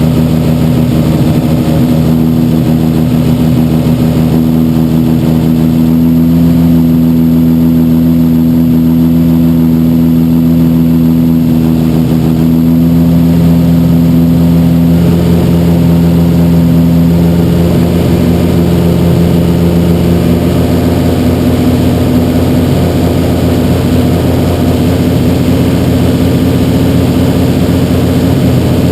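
Freshly rebuilt Toyota 1JZ-GTE inline-six with a big single turbo and upgraded cams, running steadily at idle on its first start-up, its pitch shifting slightly a few times.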